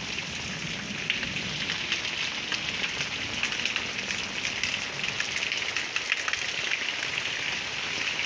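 Heavy rain falling on a concrete lane and brick walls: a steady hiss dotted with many sharp drop ticks.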